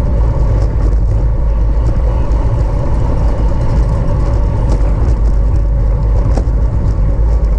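Heavy, steady wind rumble buffeting a bicycle-mounted camera's microphone at racing speed, with road and tyre noise and a few faint clicks.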